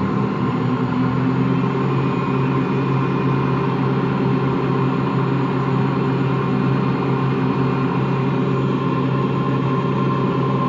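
Washing machine running empty on its spin cycle with a steady growling hum that does not change in pitch. The owner takes the growl for bad motor bearings; the drum is not loose.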